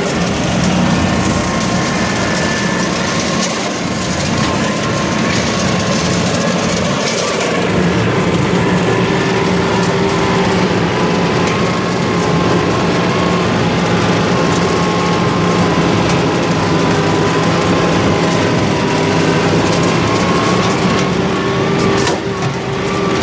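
Tractor engine running steadily under a constant throttle, its pitch drifting only slightly.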